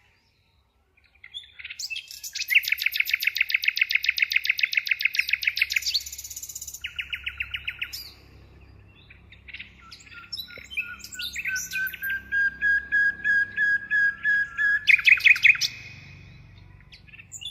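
A songbird singing: a long, rapid trill of the same note repeated, a shorter trill, then a run of clear whistled notes that climb slightly in pitch, ending in another brief trill.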